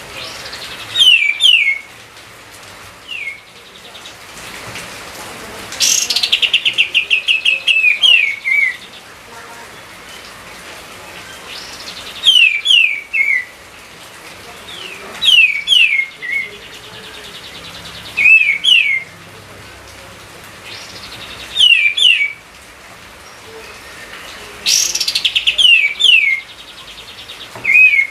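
A songbird singing: short, loud phrases of sharp notes that slide downward, some opening with a quick rattling trill, repeated every three seconds or so over a steady faint hiss.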